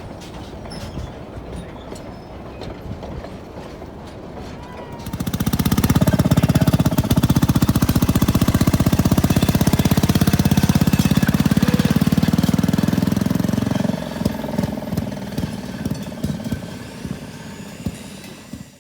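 Railroad motorcar's small engine running with a rapid, even firing beat. It comes up loud about five seconds in, holds, then falls away about fourteen seconds in.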